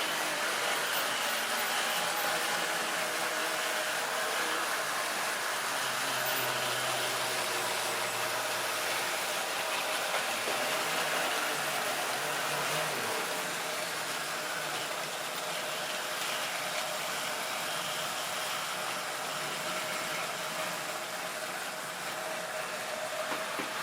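Model railway train running steadily on its track: the small locomotive motor's steady hum with the rolling noise of the wheels on the rails, easing slightly towards the end.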